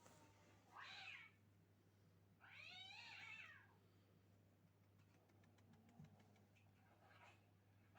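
Kitten meowing twice, a short meow about a second in and a longer, wavering one around the third second.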